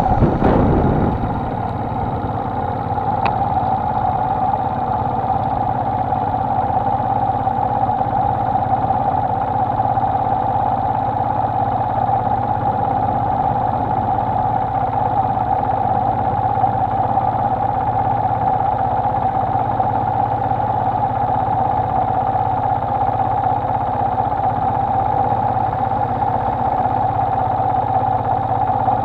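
Honda XLR125R's single-cylinder four-stroke engine idling steadily at a standstill, after the wind noise of riding dies away in the first second.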